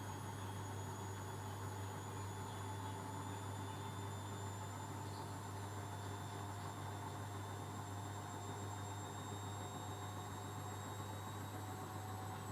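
Arçelik washing machine spinning its drum, with a steady motor whine over a low hum. The whine's pitch drifts slowly.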